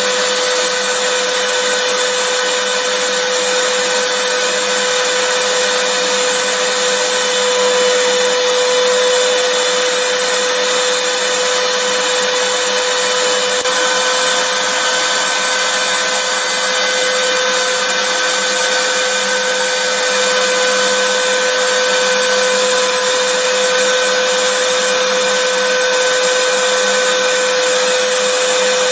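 Vacuum cleaner motor running steadily: a constant rush of air with a steady mid-pitched whine. A faint higher whine joins about halfway through.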